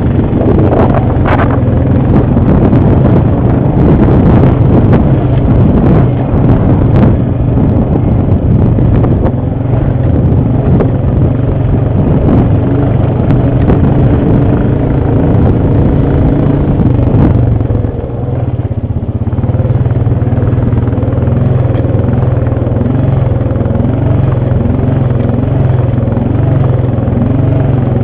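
ATV engine running steadily under load, with a few knocks and rattles in the first several seconds. Its note dips briefly about two-thirds of the way through, then settles back.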